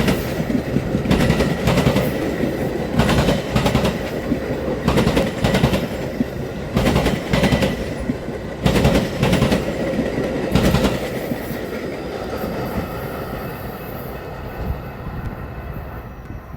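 Train passing over a rail diamond crossing: wheels bang over the crossing in sharp clacks, often in pairs, every second or two over a steady rolling rumble. About eleven seconds in the clacks stop and the rumble fades away.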